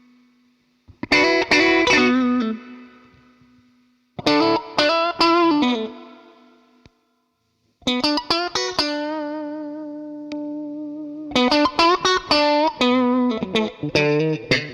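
Electric guitar played through a DemonFX Jan Ray overdrive pedal: short phrases of picked notes, each left to ring and die away, with brief silences between them. A long held note with vibrato comes near the middle.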